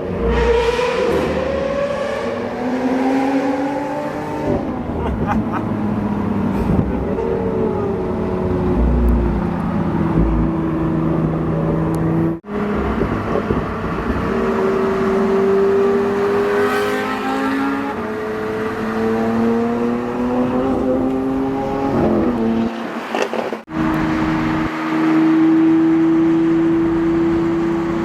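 Performance car engines accelerating. The pitch climbs, drops back at gear changes, and then holds steady at cruising speed. The sound cuts off abruptly twice, between separate clips.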